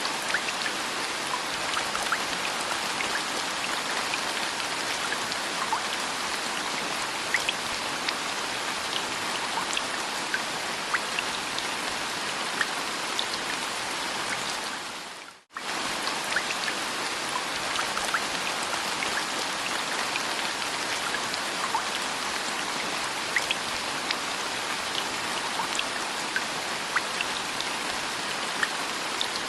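Steady rain falling on a hard surface, an even hiss scattered with individual drop ticks. About halfway through it fades out almost to silence for a moment and comes straight back, like the seam of a looped recording.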